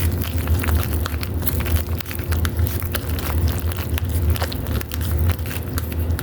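Spoon stirring cheese powder into hot macaroni in a bowl, with many small scrapes and clicks, over a steady low hum.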